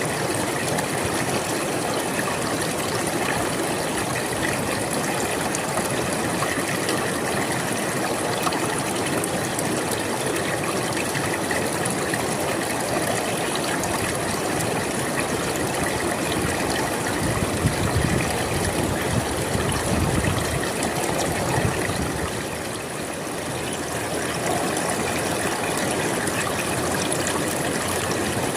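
Flowing river water, a steady rushing and gurgling that swells with a deeper rush about two-thirds of the way through, then eases briefly.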